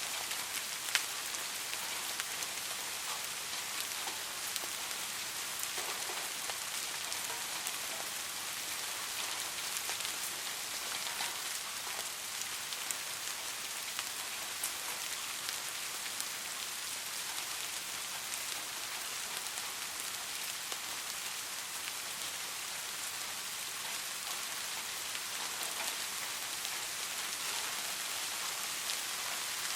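Steady soft rain falling on a surface, an even hiss with scattered individual drop ticks and no thunder.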